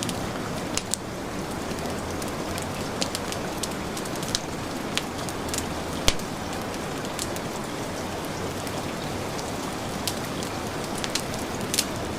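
Steady heavy rain hiss with a crackling wood fire: irregular sharp pops and snaps over the even wash, the loudest about six seconds in.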